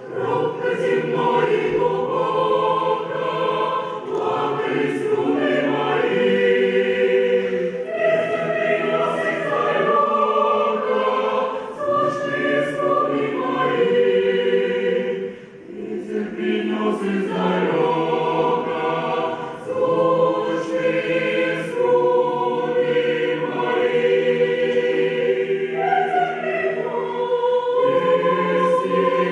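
Mixed choir singing sustained chords in long phrases, with a short break between phrases about halfway through.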